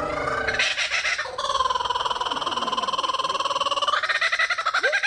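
A person rolling their R's in a long, loud, steady trill to provoke a laughing kookaburra. Near the end the kookaburra starts calling with a run of quick rising-and-falling notes.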